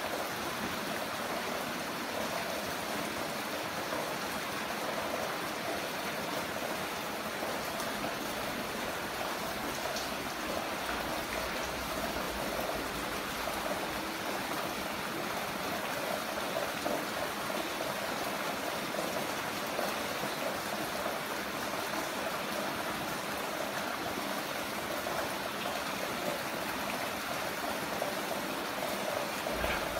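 Heavy rain falling steadily, an even rushing hiss with no breaks or single drops standing out.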